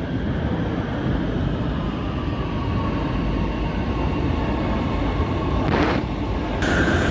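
A train running on the rails: a steady rumble with a faint whine. Near the end there is a brief hiss, then the sound changes abruptly to a brighter one with a higher whine.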